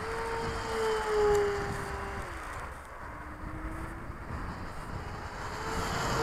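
A ParkZone FW 190 radio-control warbird's electric motor and propeller whining as the plane flies past. The pitch slides down as it passes and dips away about two and a half seconds in, then returns lower and climbs again near the end.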